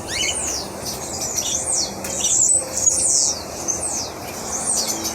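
Many small birds chirping and squawking together, a dense chorus of quick, high, falling chirps that overlap without pause.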